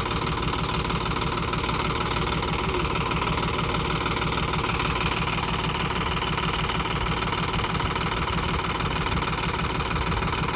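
Sonalika DI 734 tractor's diesel engine running steadily, with no clear rise or fall in revs.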